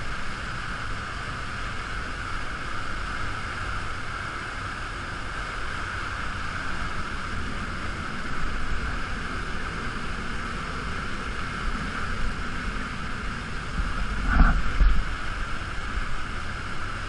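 Steady rushing of a waterfall's falling water close by, with a brief louder splash or thump about fourteen seconds in.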